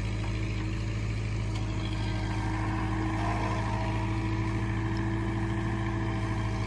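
Diesel engine of a heavy vehicle running at a steady speed, with an even, unbroken drone.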